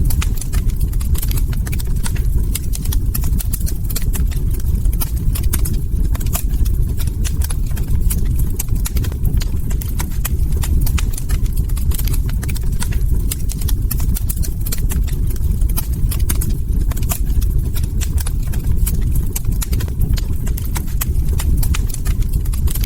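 Log fire crackling: many irregular sharp pops and snaps over a steady low rumble.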